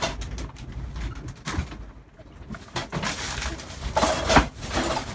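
Creaking and knocking inside the cabin of a heeled sailboat as it pounds to windward, with scattered clicks and a louder clatter of knocks about four seconds in.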